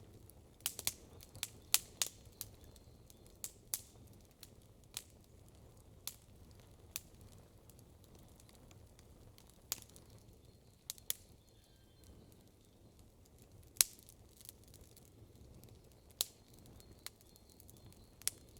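Wood campfire crackling: irregular sharp pops and snaps, a quick cluster about a second in and a single loud snap about three-quarters of the way through.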